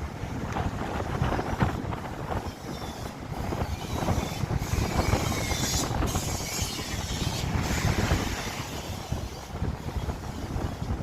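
Vehicle driving along a road, a steady rumble of engine and road noise with wind buffeting the microphone.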